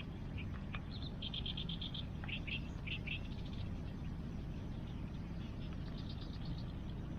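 A frog calling in short rapid trains of high pulses, several times, over a steady low rush of river water.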